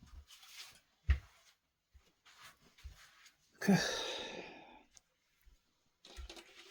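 A man's loud sigh about halfway through, with a few small knocks and handling sounds before it.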